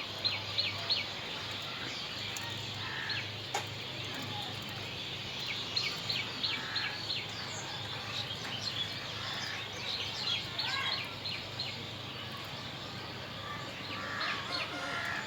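Budgerigars chirping, short sharp calls coming in quick clusters with pauses between, over a steady low hum.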